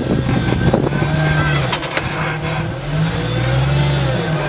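Jeep Cherokee XJ's engine running at low speed under load while rock crawling, its pitch rising and falling gently with the throttle and strongest about three seconds in. A few sharp knocks near the start.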